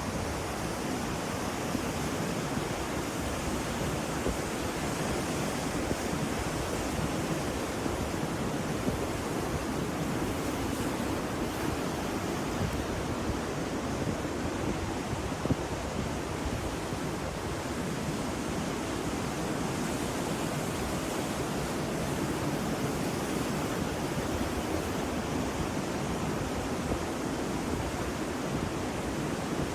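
Ocean surf: a steady, even wash of waves with no distinct crashes standing out.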